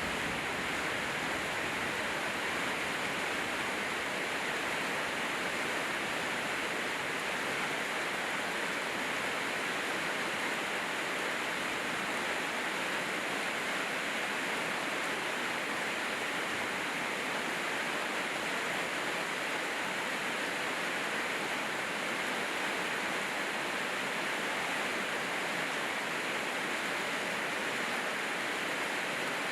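Steady rain falling, an even hiss that holds at one level throughout with no single drops, thunder or other events standing out.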